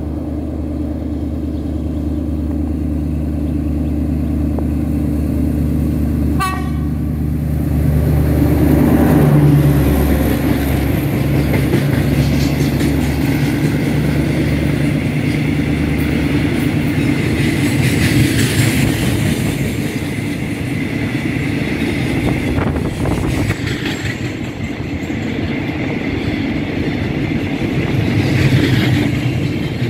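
Alsthom diesel-electric locomotive's engine running as it approaches and passes close by, loudest about nine seconds in. After that, a long train of oil tank wagons rolls past with a steady noise and the clatter of wheels over rail joints.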